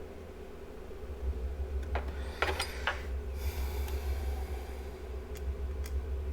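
Small clicks and scrapes of hand tools working on an engine computer's circuit board during soldering, about two to three seconds in, then a soft hiss lasting a couple of seconds and two faint ticks. A steady low hum from bench equipment runs underneath.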